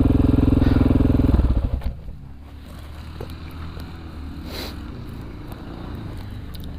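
Honda XR400R's single-cylinder four-stroke engine running hard under throttle, then dropping back to a much quieter idle about two seconds in.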